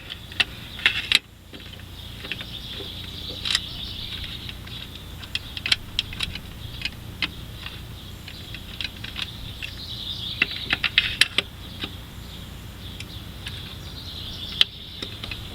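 Scattered sharp metallic clicks and light clatter of a hand ratchet on a long extension with a Torx bit, driving the intake plenum bolts on an engine, with clusters of quick clicks about ten seconds in and again near the end.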